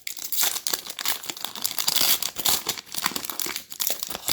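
Plastic trading-card pack wrapper being torn open and crinkled by hand, a dense crackle of many small rustles, as the next pack of Donruss Optic basketball cards is opened.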